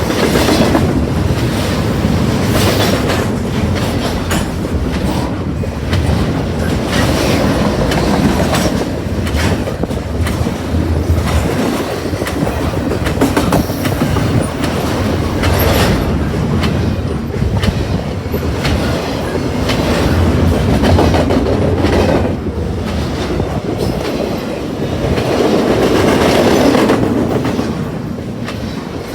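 A train's cars rolling past at close range, with the wheels clacking again and again over the rail joints.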